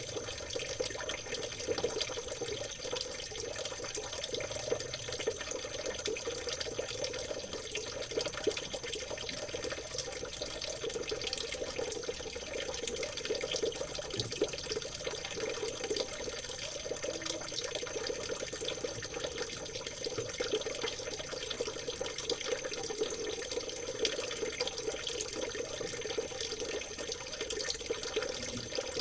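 Stream water babbling and trickling steadily, a continuous gentle splashing that does not change.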